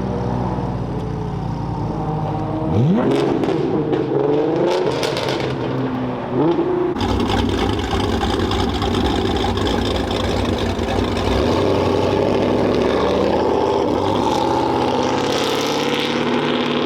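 Car engines running and revving as cars drive past, with a rising rev about three seconds in and another about six seconds in. About seven seconds in the sound changes abruptly to a steady engine rumble.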